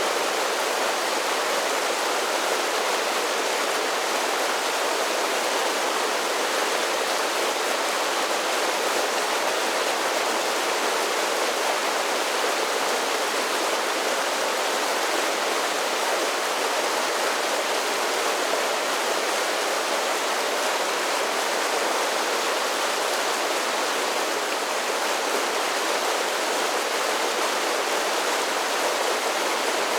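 Mountain creek cascading over a series of small waterfalls, a steady rush of falling water with no change in level.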